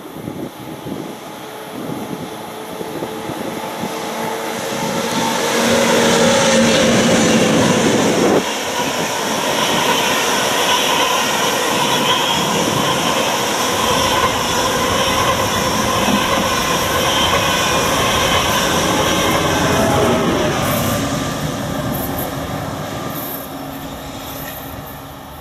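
A double-deck regional electric train approaching, its pitched whine growing louder; then an ICE high-speed train passing close at speed, a loud steady rush of wheels and air that fades as it moves away.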